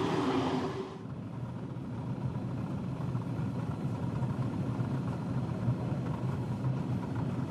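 An express train hauled by a Swiss Re 4/4 II electric locomotive rushes close by, its noise fading away within the first second. Then comes the steady low rumble of the train running.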